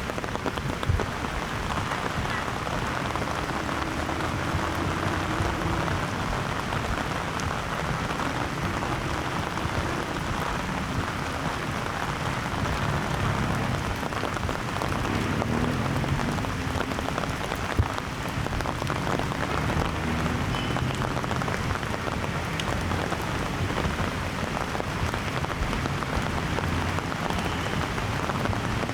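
Steady rain falling, a dense even patter of raindrops that holds at a constant level throughout.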